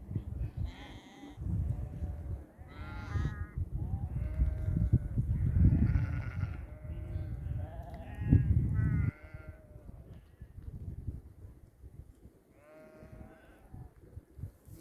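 Sheep bleating repeatedly, about eight separate calls, over a low rumble that stops about two-thirds of the way through.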